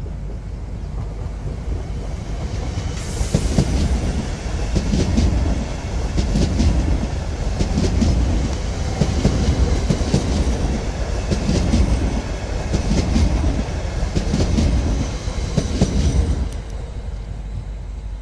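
Stadler FLIRT electric multiple unit passing close by. Its wheels click over the rail joints in groups every second or two, over a steady rushing noise. The sound drops away fairly quickly near the end as the last car goes by.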